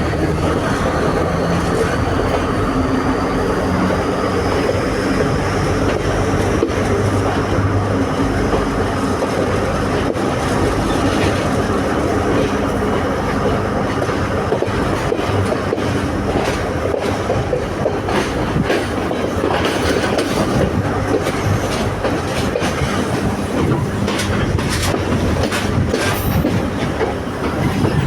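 Class S12 diesel-electric multiple unit running along the track: a steady engine and rolling-wheel roar, with a faint rising whine in the first few seconds. Wheels click over rail joints, more often in the second half.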